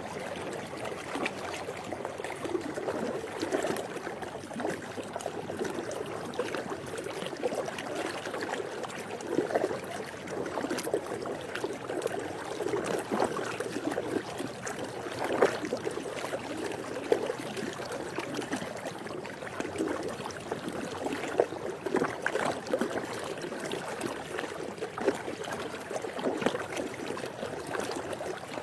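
Swimming pool water sloshing and lapping in a continuous wash, dotted with irregular small splashes.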